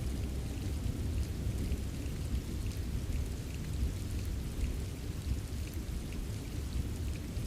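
Steady rainfall: a dense, even wash of rain with a deep low rumble underneath and scattered light drip ticks.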